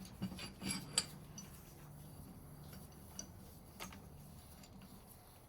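Light metal clicks and clinks of vise parts being handled and fitted together during reassembly: a few in the first second, the sharpest about a second in, then a couple of scattered ticks. A faint steady low hum sits underneath.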